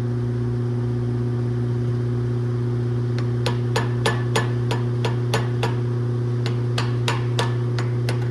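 Hammer tapping on a flathead screwdriver to work apart a stuck lawnmower carburetor: a run of light metal taps about three a second, starting about three seconds in, with a short pause midway. A steady low hum runs underneath.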